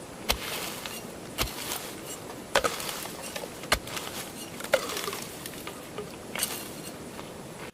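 A tool striking bamboo in steady work, six sharp knocks about a second apart, some with a brief hollow ring.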